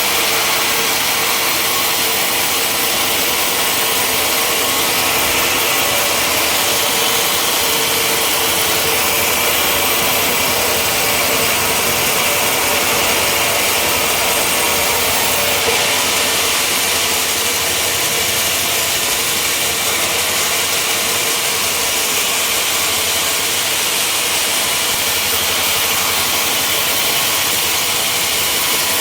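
Sawmill running steadily, its saw cutting through timber in one long, unbroken pass over a running engine.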